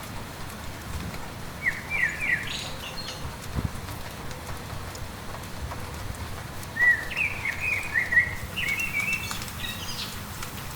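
A songbird singing two phrases of quick chirped notes, a short one near the start and a longer one in the second half, over a steady hiss of light rain.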